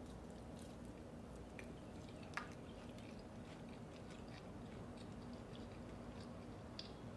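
Faint close-miked chewing, with scattered small mouth clicks over a steady low background hum and one sharper click about two and a half seconds in.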